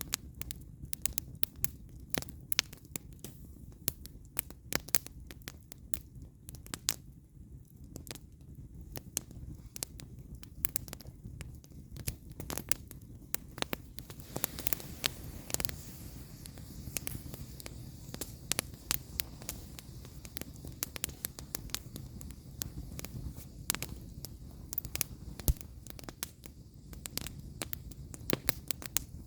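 Firewood burning in an open campfire: irregular sharp crackles and pops over a low steady rumble, with a short hissing stretch about halfway through.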